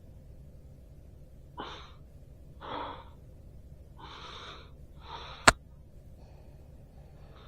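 Several short, heavy breaths or gasps, then a single sharp pop about five and a half seconds in, a joint in the back or shoulder cracking.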